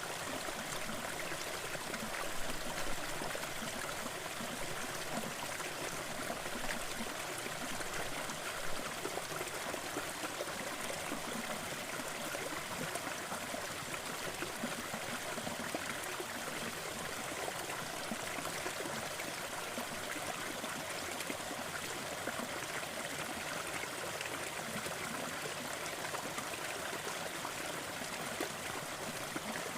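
Fireplace crackling over a steady rushing noise bed, with faint ticks throughout and a few louder pops in the first nine seconds or so.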